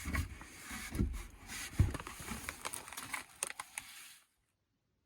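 Scattered rustling and crinkling with light clicks and soft knocks of something being handled, then the sound cuts off abruptly about four seconds in.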